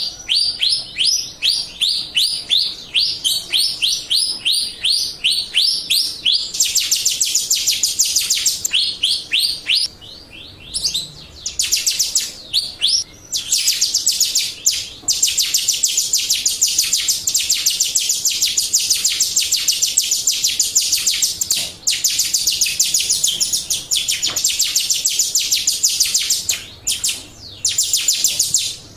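A Jalak Rio starling sings long strings of rapid, high, repeated chirps, several notes a second, with brief pauses between bursts. This is a recorded call used as a lure (pancingan) to make caged birds answer and sing.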